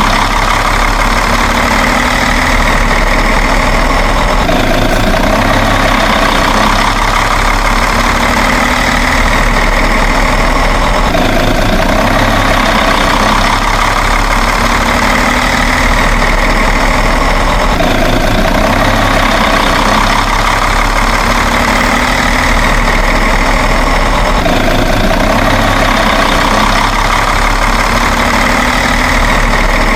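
Truck engine idling steadily, a continuous engine sound that repeats in a loop about every six to seven seconds.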